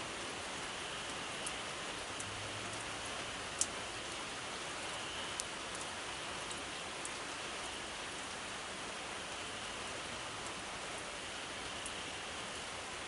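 Steady rain falling, with a few sharp ticks of drops; the loudest tick comes about three and a half seconds in.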